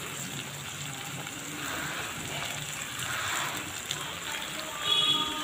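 Chopped capsicum and fish belly frying in oil in a kadai: a steady sizzle.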